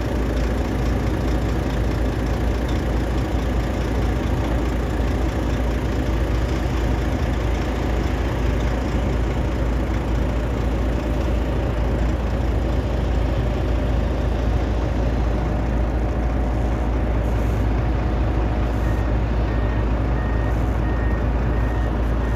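Heavy diesel engine of a large machine, such as a Volvo excavator or truck, running steadily at a low, even pitch. Near the end a faint, regularly repeated beep joins in.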